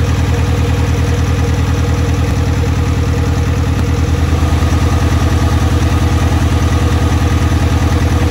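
Isuzu D-Max's 1.9-litre four-cylinder turbo diesel idling, a loud, steady, even pulsing.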